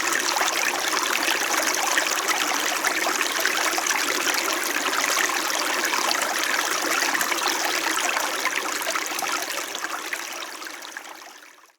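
Small winter mountain stream babbling and trickling steadily over its bed. The sound fades out to silence over the last couple of seconds.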